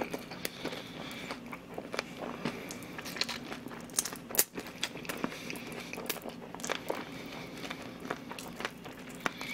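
Crispy-battered fried chicken being bitten and chewed close to the microphone: irregular crisp crunches and clicks.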